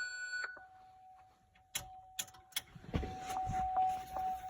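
Fire truck cab controls: a short buzzy electronic beep, then a few sharp switch clicks over a steady high-pitched tone, as the truck's lights are switched on.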